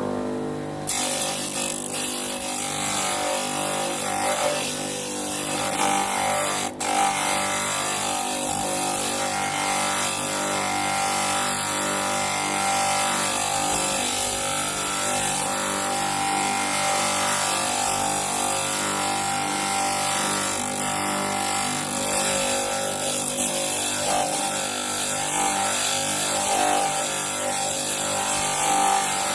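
Homemade bench grinder running steadily, with the hiss of a workpiece being ground round against the wheel. There is one brief drop in the sound about seven seconds in.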